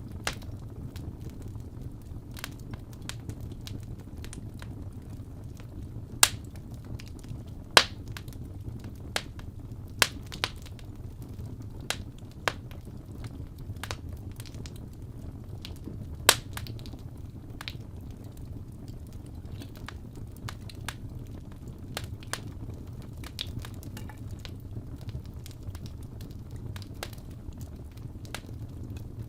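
Wood fire burning in a fireplace: a steady low rumble of flame with irregular sharp crackles and pops, a few of them much louder than the rest.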